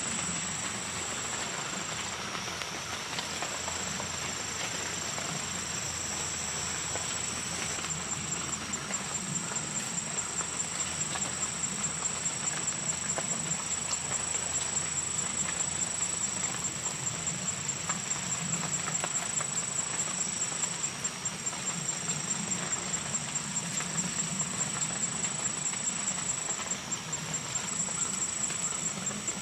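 Steady rain falling, with insects keeping up a high, steady trill that becomes a regular pulsing about eight seconds in.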